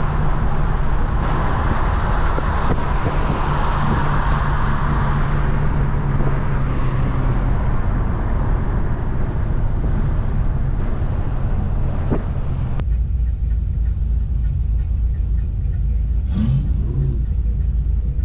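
Car engine droning steadily with road noise while driving. About thirteen seconds in, the higher hiss drops away suddenly, leaving a heavier low rumble.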